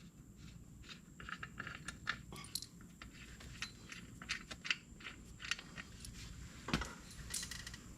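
Scattered faint clicks, clinks and knocks at irregular spacing from hands-on work removing a tractor tire, with a louder knock near the end.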